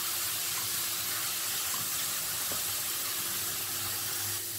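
Almond pulp and sugar frying in desi ghee in a non-stick pan, giving a steady sizzle as it is roasted and stirred.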